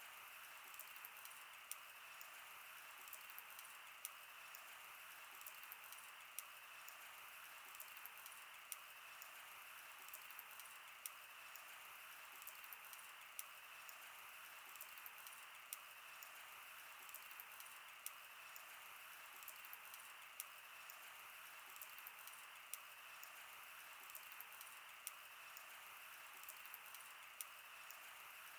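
Wood fire crackling: irregular sharp pops and snaps over a faint, steady hiss.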